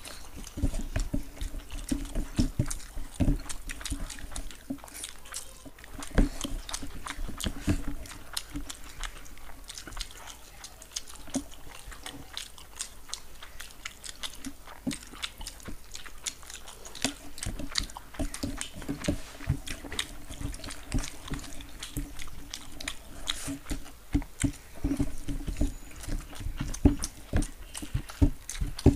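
Two people eating fried rice and chicken Manchurian by hand close to a table microphone: wet chewing and lip-smacking with many short, irregular clicks and smacks.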